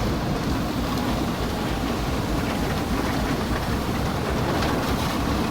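Automatic car wash running: a steady rushing of water spray hitting the car like heavy rain, over a deep rumble from the wash machinery.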